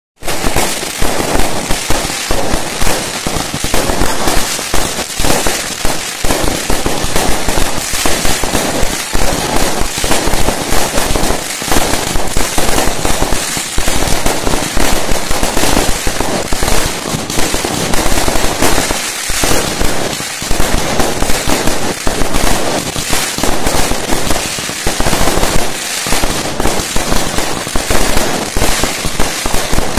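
Fireworks display: a dense, unbroken barrage of bangs and crackles, many explosions overlapping.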